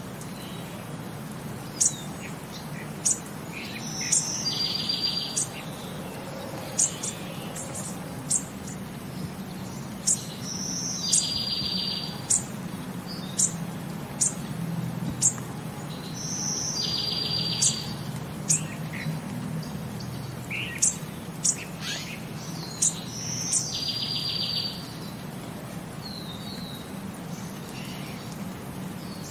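Songbirds chirping and singing: a short buzzy trill repeats about every six seconds, with quick sharp high chirps in between.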